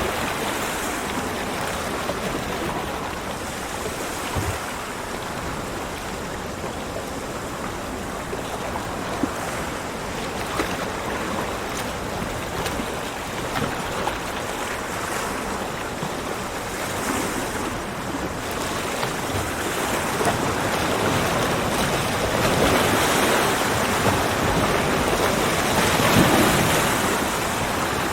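Ocean waves breaking on a beach, a steady wash of surf that swells and ebbs, building louder in the second half.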